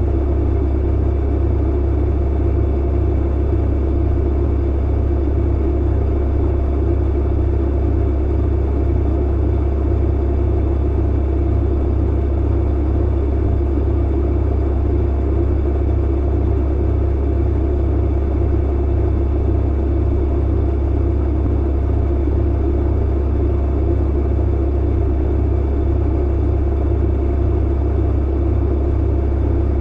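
Clothes dryer running: a steady, unchanging low hum and drone, with no separate thumps or breaks.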